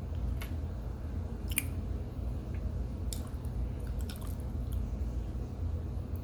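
A mouthful of packed cornstarch being chewed, with scattered short wet clicks and squishes. A low steady hum runs underneath.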